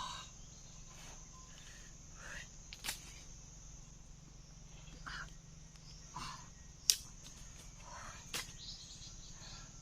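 Forest insects buzzing steadily and high, with a few sharp clicks and short faint chirps or calls over it.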